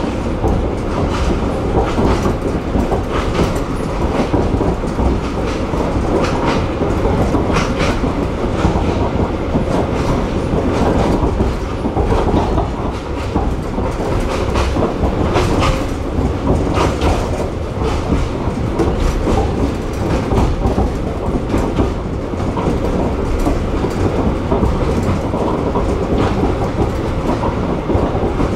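Narrow-gauge heritage train running, heard from on board: a steady rumble of the rolling carriage with irregular sharp clacks of the wheels over the rail joints.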